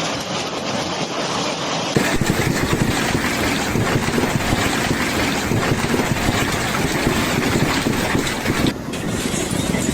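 Heavy hail pelting down in a dense, constant din of impacts. The sound changes abruptly about two seconds in and again near the end.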